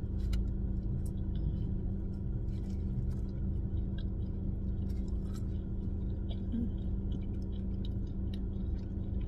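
A person chewing a mouthful of chili cheese dog, with scattered small wet clicks and smacks, over a steady low hum.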